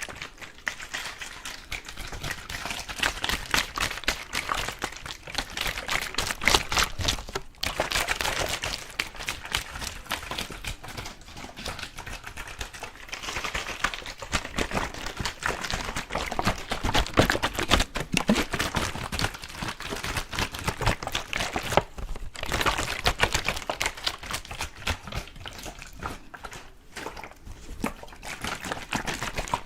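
Close-miked ASMR water sounds: a dense, continuous run of small wet clicks and crackles.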